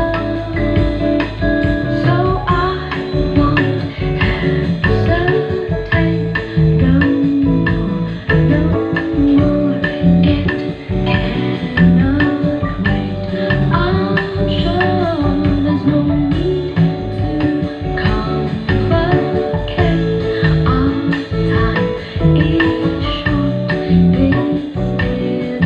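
A song with singing and guitar played loudly through a Sony LBT-ZUX10D mini hi-fi system from a CD, with heavy, pulsing bass and little treble.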